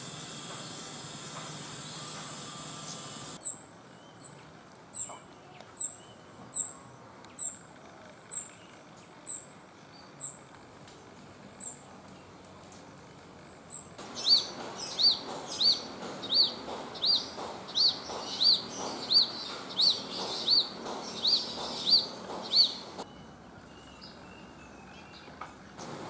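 Cit kemade bird calling: first a string of short, high, thin chirps about one a second, then a louder, quicker run of repeated, somewhat lower notes. A steady insect buzz fills the first few seconds.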